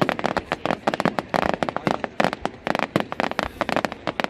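Fireworks going off in a rapid, unbroken string of sharp bangs and crackles, many a second.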